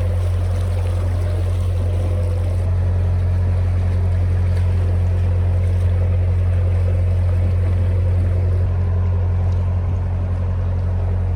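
Narrowboat engine running steadily at cruising speed, a constant low drone, with water noise around the hull.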